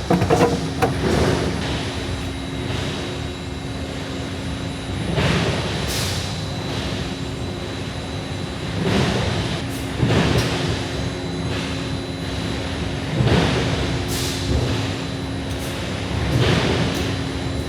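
Steady mechanical hum with a rush of noise every few seconds, typical of heavy machinery at work.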